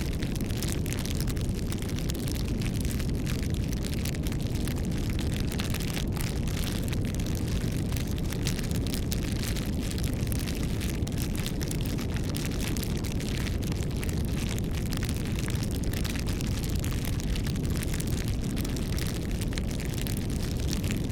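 Wood fire burning: a steady low rush of flame with dense, irregular crackling and popping from the burning wood.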